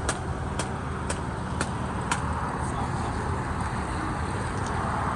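Air-ride suspension on an Acura TL letting its air out as the car lowers: a steady hiss over a low rumble. Five sharp clicks come about twice a second through the first two seconds, then a few fainter ones.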